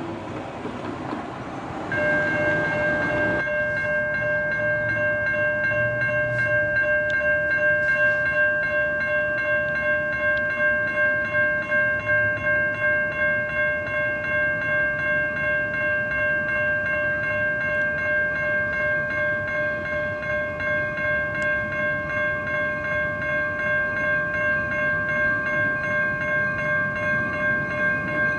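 Railroad grade-crossing bell that starts ringing suddenly about two seconds in and keeps on with a steady, even pulse, signalling that a train is approaching. Train rumble sounds underneath.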